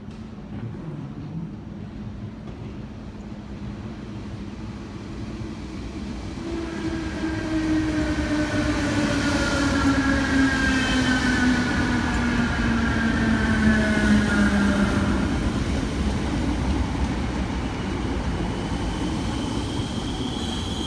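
DART 8100-class electric multiple unit pulling into the platform: its rumble grows, and a motor whine with several harmonics falls steadily in pitch as the train slows. Near the end a steady high-pitched tone starts.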